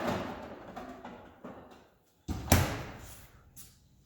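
A door shuts with a loud thud about two seconds in, right after a moment of dead silence, and its sound dies away.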